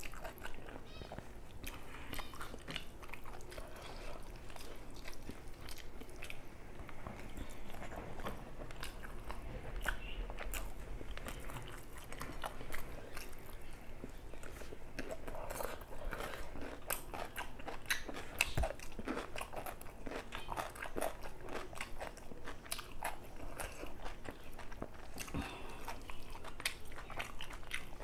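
Close-miked chewing and mouth sounds of a person eating rice and spicy chicken curry by hand: a steady run of small wet clicks and smacks, with fingers working the rice on a banana leaf now and then.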